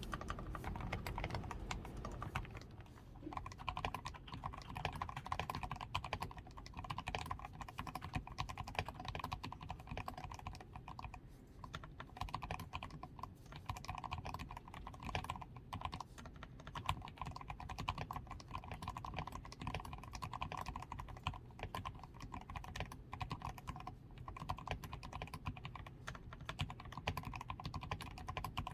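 Rapid, continuous typing on a DAREU A87 Pro mechanical keyboard. Its switches are fully lubed with Krytox 105, the PCB is tape-modded, the switches are foam-reinforced, the stabilizers are lubed and it wears XDA keycaps.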